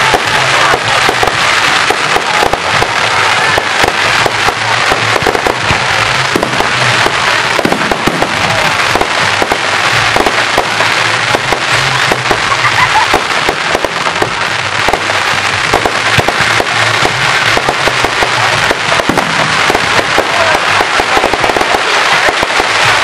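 Fireworks display: aerial shells bursting in quick succession, with a loud, dense, continuous crackling that never lets up.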